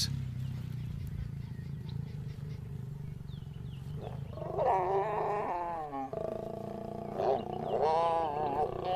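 Lions growling during mating: a low rumbling growl, then loud wavering snarls about halfway through and again near the end.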